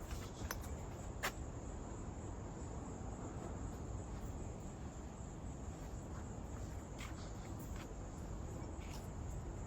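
Insects shrilling steadily in a continuous high-pitched chorus, with a few light clicks scattered through it.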